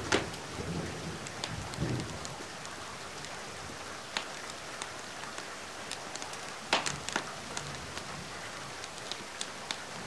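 Steady rain hiss with a wood fire crackling over it: scattered sharp pops, the strongest just after the start and about seven seconds in. A brief low rumble comes about two seconds in.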